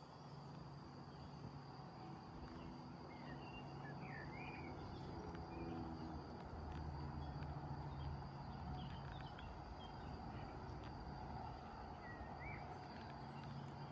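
Summer countryside ambience: insects trilling steadily on one high note, a bird chirping a few short notes in the middle and again near the end, over a low hum that comes and goes.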